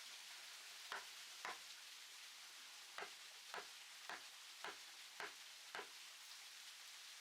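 Faint, sharp knocks on wood, eight in all: two about a second in, then six at an even pace of about two a second, over a steady hiss.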